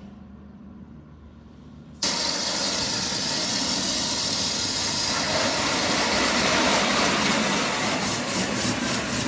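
Automatic car wash water jets start suddenly about two seconds in, spraying the car with a loud, even rush heard from inside the cabin, pulsing quickly near the end. Before that there is only a low steady hum.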